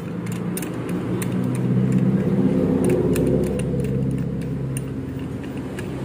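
A motor vehicle engine running, growing louder for the first couple of seconds and then easing off, with small sharp metallic clicks over it.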